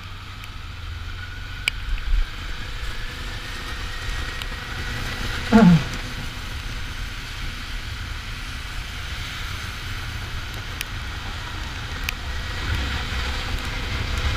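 Kawasaki Ninja 400's parallel-twin engine running under way with wind noise, its pitch rising slowly. About five and a half seconds in, a brief loud sound slides sharply down in pitch.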